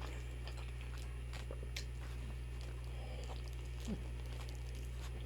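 A person chewing food with mouth sounds and faint crunches, scattered soft clicks over a steady low hum.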